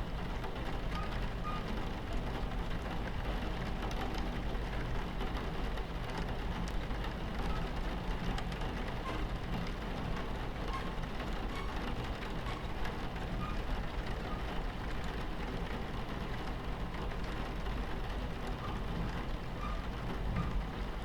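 Steady low rumble of a train running on its tracks, heard from inside the carriage, with rain on the window: a dense scatter of small ticks and drips over an even hiss.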